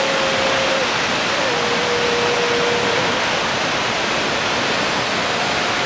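A waterfall crashing, heard close up as a loud, steady, even rush of water.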